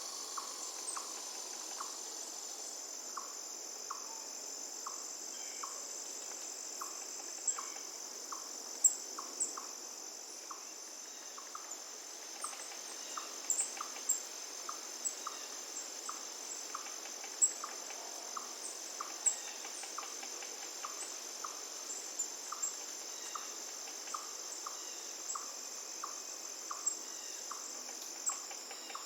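Steady, high-pitched chorus of insects, with a regular ticking call about twice a second and scattered short, sharp high chirps over it.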